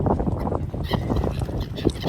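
Birds calling in many short notes over a low rumble, with a dense, high chirping chatter joining about a second in.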